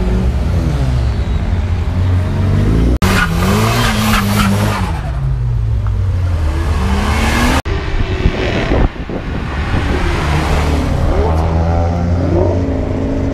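Car engines revving up and down, with a spell of tyre squeal in the middle. The sound cuts off abruptly twice, about three seconds in and again about seven and a half seconds in.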